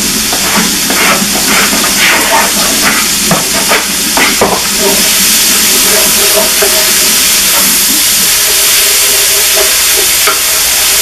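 Sausage sizzling in a large stainless steel pot as chopped peppers are scraped in off a plate and stirred with a wooden spoon. Quick clatters of the spoon for the first four seconds or so, then a steady, louder sizzle as the mixture is stirred.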